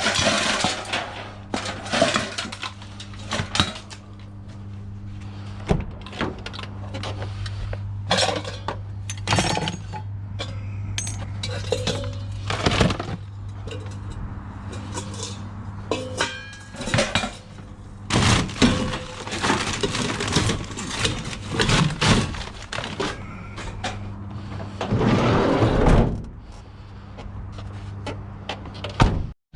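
Scrap metal and other hard objects being handled: repeated clanks, knocks and rattles at irregular intervals, over a steady low hum that stops near the end.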